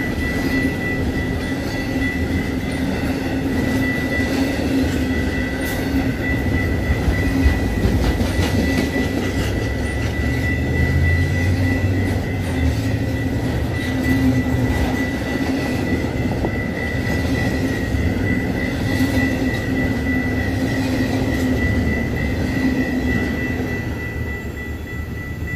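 Double-stack intermodal freight cars rolling past at a grade crossing: a steady rumble of wheels on rail with irregular clicks and clatter, easing slightly near the end as the last cars go by.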